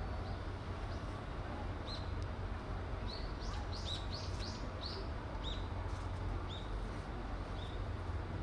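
Small birds chirping: many short, high, downward chirps, bunched most thickly in the middle, over a steady low rumble.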